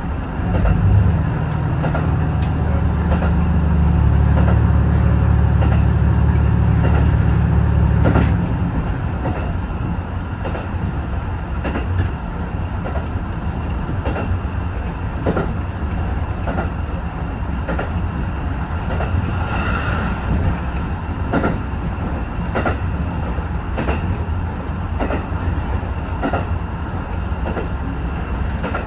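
HB-E210 series hybrid diesel train running along the line. A deep engine drone fills the first eight seconds or so and then drops away, leaving steady running noise with wheels clicking over rail joints.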